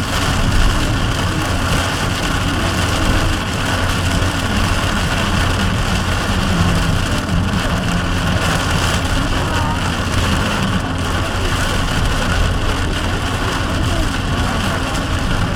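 Heavy rain heard from a moving vehicle driving on a wet road: a steady hiss of rain and tyre spray over a low engine rumble.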